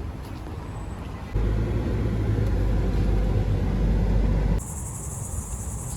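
A low, dull rumble that comes in suddenly about a second and a half in and cuts off about three seconds later. It gives way to a steady high buzz of crickets.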